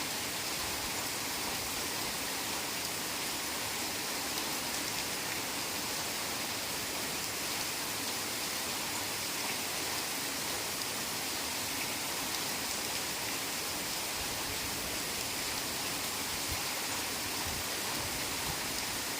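Steady heavy rain falling, an even, unbroken hiss with no separate drops or thunder standing out.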